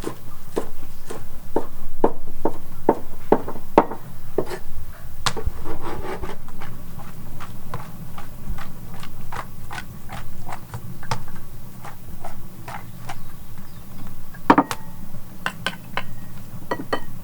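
Repeated sharp knocks on wood, about two to three a second, over a steady low hum, with one louder knock near the end.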